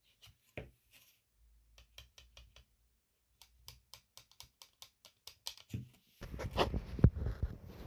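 Support material being snapped and picked off a black PETG 3D print: scattered sharp clicks and cracks that come faster after about three seconds, then a louder stretch of handling noise and knocks in the last two seconds.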